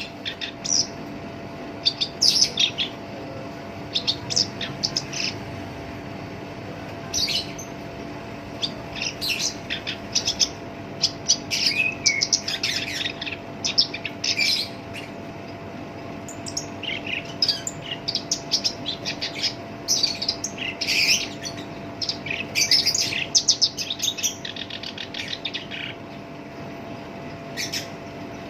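Black-browed reed warbler singing in rough, harsh bursts of quick, scratchy notes, with short pauses between phrases. A faint steady hum sits underneath.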